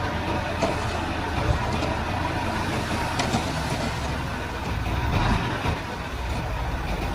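Komatsu D31-P bulldozer's diesel engine running steadily at work, with a few short clanks now and then.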